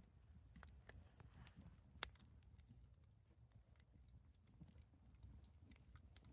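Faint wood campfire crackling: irregular sharp pops and snaps, the loudest about two seconds in, over a low steady rumble.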